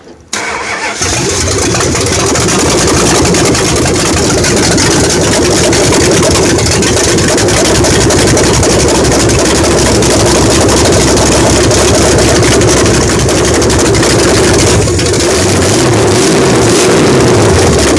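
Rebuilt Chrysler 440 V8 in a 1968 Dodge Charger R/T running at a raised idle, loud and raw with the exhaust disconnected at the manifolds. The sound cuts in abruptly at the start and stops abruptly at the end.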